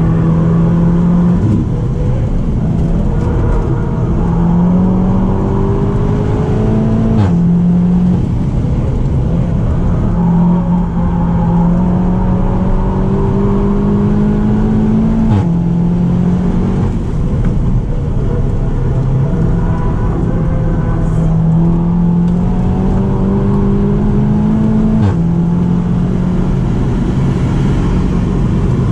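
Seat Leon Cupra 290's 2.0-litre turbocharged four-cylinder heard from inside the cabin under hard acceleration at high speed. Its pitch climbs slowly and drops sharply at three DSG upshifts, each with a short crack.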